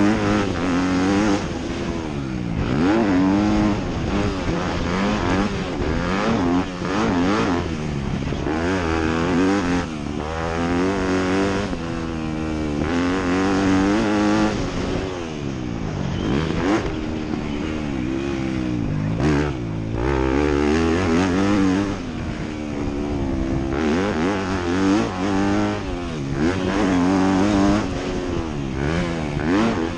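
Motocross dirt bike engine racing, its pitch climbing and dropping back over and over as the throttle opens and closes through the laps.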